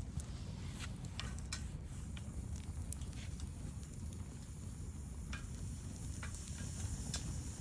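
Wood campfire burning, with scattered sharp crackles and pops over a low steady rumble.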